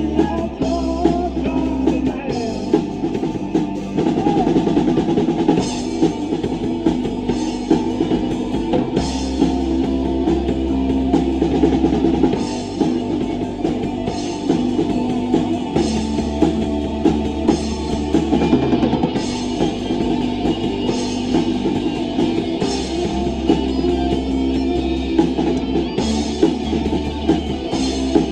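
Rock band playing live, drum kit prominent, with a steady beat of bass drum and cymbals under low sustained bass notes.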